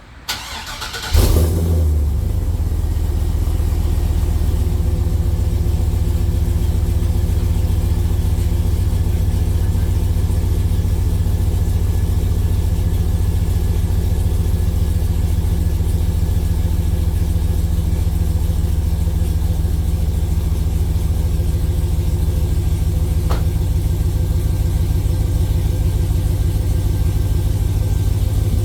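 2004 GMC Sierra 2500 HD pickup's engine starting cold: a brief crank, catching about a second in with a loud flare of revs, then settling into a steady idle.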